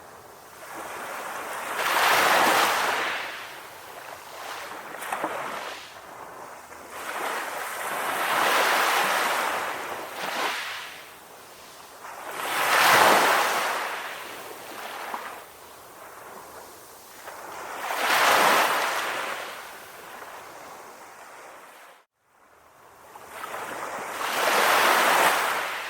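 Sea waves breaking on a shore: five swells of surf, each rising and washing out, about every five seconds. A brief sudden gap of silence comes just before the last wave.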